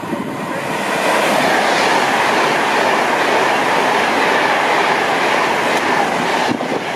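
Train running past on the rails close by: a loud, steady noise of wheels on track that builds over the first second and falls away near the end.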